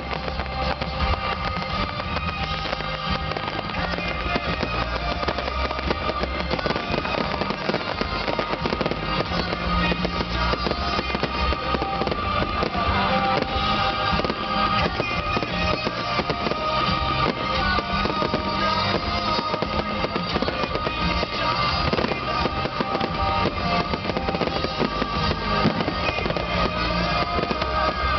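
Fireworks crackling and popping continuously, mixed with music.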